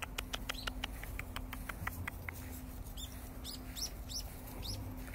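Small birds calling: a quick run of sharp chips, about five a second, for the first two seconds, then a handful of short, high chirps that fall in pitch.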